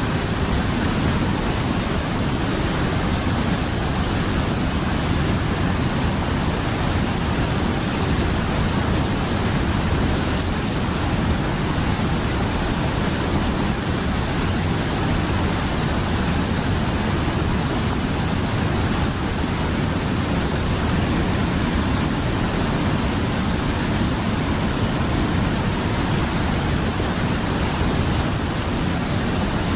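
Mountain river flowing: a steady, even rush of water with no breaks.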